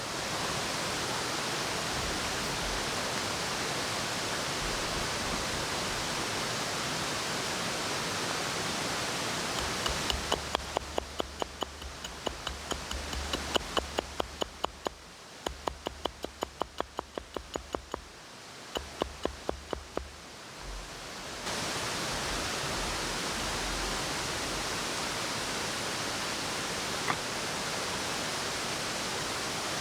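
A steady rushing noise, with a run of sharp, evenly spaced knocks in the middle, about two or three a second.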